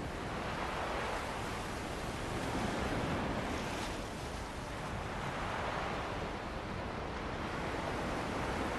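Ocean waves breaking and washing on a beach, with wind blowing over them; the surf swells and eases every two to three seconds.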